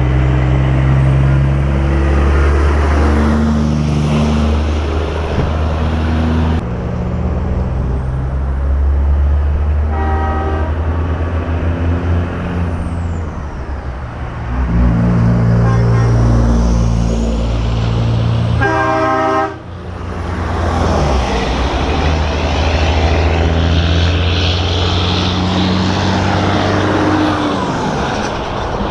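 Heavy semi-trucks in a convoy, their diesel engines running with a deep rumble, with a short air horn blast about a third of the way in and a louder one about two-thirds in.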